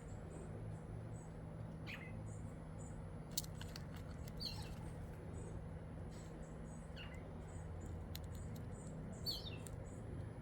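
Birds chirping outdoors: repeated short high chirps, with a few falling calls about every two to three seconds, over a steady low hum and a faint continuous high whine.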